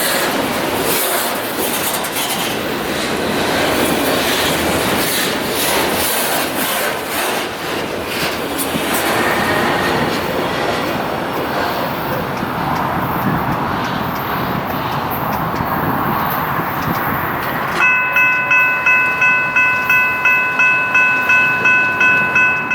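Freight train rolling past, its wheels clicking over the rail joints. Near the end a bell begins ringing, about three strikes a second.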